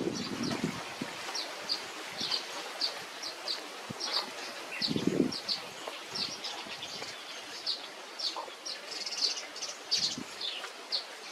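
Small birds chirping: short, high chirps repeated about twice a second over a faint background hiss, with a brief low rustle about five seconds in.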